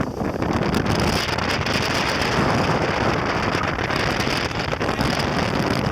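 Strong wind buffeting the microphone over the steady rush of water past the hulls of a Nacra 570 sailing catamaran moving fast in about 17 knots of wind.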